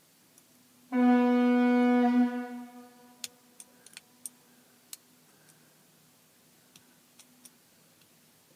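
Fire-alarm diaphone sounding one steady-pitched horn blast of about a second and a half, which then dies away with a faint lingering tone; a few small clicks follow.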